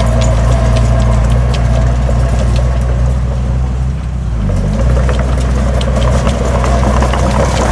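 Heavy diesel engine of earthmoving machinery running, with scattered metallic clanks. The engine note sags briefly about four seconds in, then picks up again.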